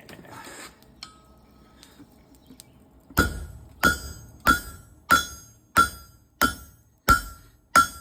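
Blacksmith's hammer striking hot steel on an anvil while forging a tong jaw. About eight blows land in a steady rhythm, roughly three every two seconds, starting about three seconds in. Each blow has a short, bright ring, with only light clinks before the hammering begins.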